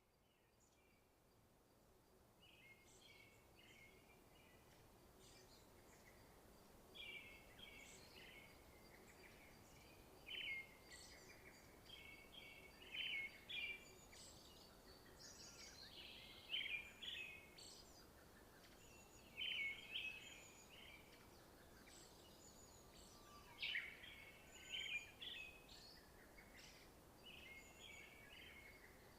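Small songbirds chirping and twittering in short clusters every second or two, over a faint steady background hiss, fading in over the first few seconds.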